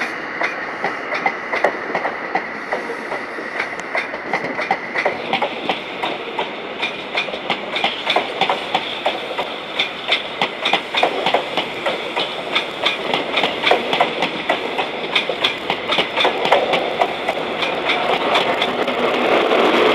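High Speed Train's Mark 3 coaches rolling past on departure, wheels clicking rapidly over rail joints and pointwork above a steady high-pitched whine. The running noise swells near the end as the rear power car draws closer.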